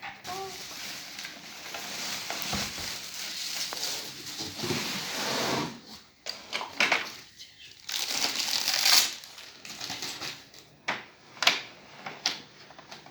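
Packaging being handled while a vacuum cleaner is unboxed: plastic and cardboard rustling and crinkling for about six seconds, then a run of sharp clicks and knocks with short rustles between them.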